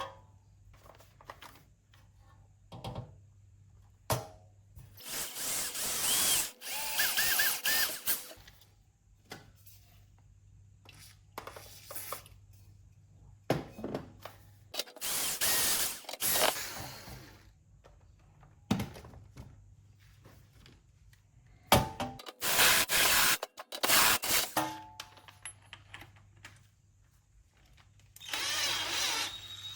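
Cordless electric screwdriver or drill running in four spells of about two to three seconds each, driving screws into a metal chassis. Short clicks and knocks of parts being handled come between the spells.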